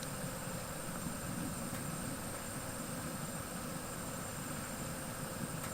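Steady mechanical hum and rush with a faint high whine, unchanging throughout.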